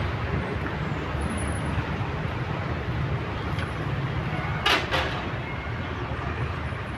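A steady low rumble, with two sharp knocks close together about four and a half seconds in.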